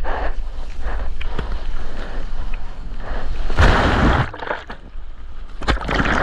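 Seawater splashing and sloshing close to a surfer's GoPro, over a steady low rumble of wind on the microphone. There is a louder rush of water about three and a half seconds in, and a few sharp splashes near the end.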